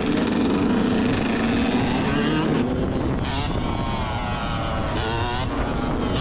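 Yamaha YZ125 single-cylinder 125cc two-stroke dirt bike engines running at a steady pitch at first. From about halfway through, the engines rev up and down several times.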